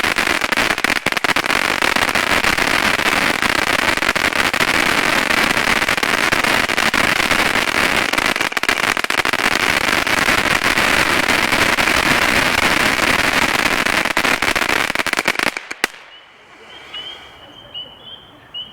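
Pyro Planet White Noise fountain firework crackling: a dense, continuous wall of loud crackle that sounds like firecrackers. It stops abruptly about sixteen seconds in as the fountain burns out, leaving only faint, repeated high chirps.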